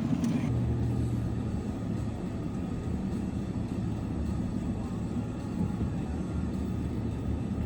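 Car engine and road noise heard from inside the moving vehicle's cabin: a steady low rumble.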